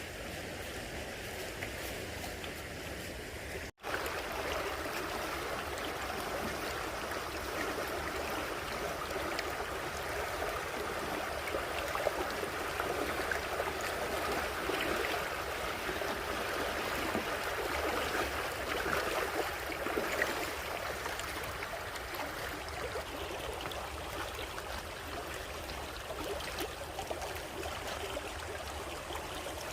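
Water running in a stream, a steady rushing flow, with a brief dropout in the sound about four seconds in.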